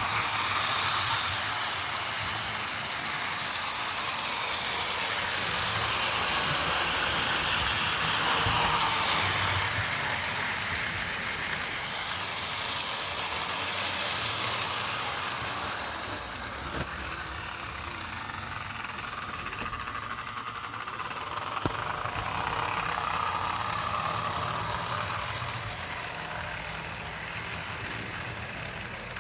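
Vintage Lionel toy train locomotive running on its track, its electric motor and wheels whirring steadily, growing louder and softer as it travels, with a couple of sharp clicks partway through.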